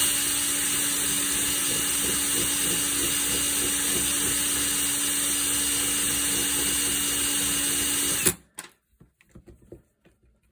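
Electric drill running at a steady speed, spinning a screw held in its chuck while the screw's edge is filed down to size. The motor cuts off suddenly about eight seconds in, followed by a few faint light clicks.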